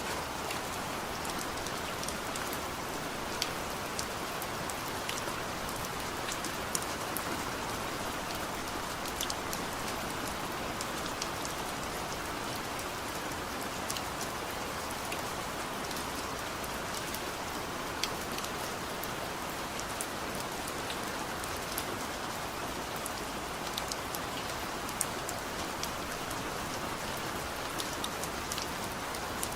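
Steady heavy rain, an even hiss with many sharp individual drops pattering on a surface.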